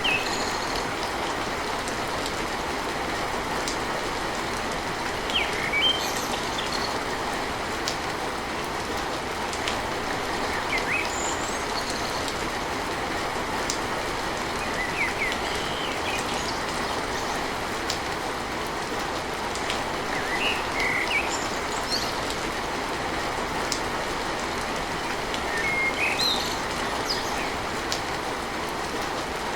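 Steady rain falling on a tin roof, with a bird chirping briefly every five seconds or so.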